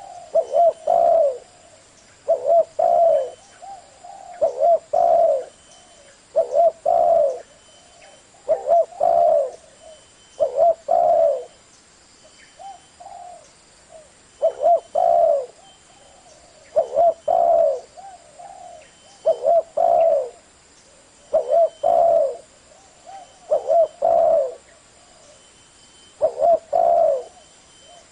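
Spotted dove cooing in a deep 'thổ' voice. Each phrase is two or three low coos, repeated about every two seconds, with a few softer, shorter coos in one brief gap.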